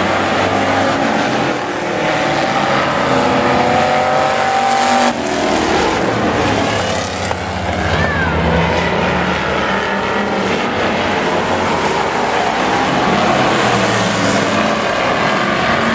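Engines of several racing demo pickup trucks running hard around an oval track, several at once, rising and falling in pitch. The sound changes abruptly about five seconds in.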